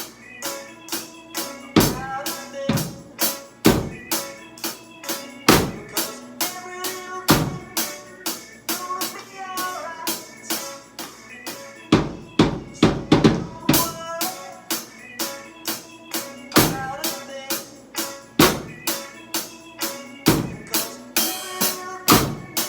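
Drum kit played along to a reggae song: quick, evenly spaced hi-hat strikes with a muffled kick drum about once every two seconds in a one-drop feel, over the recording's guitar, bass and vocals.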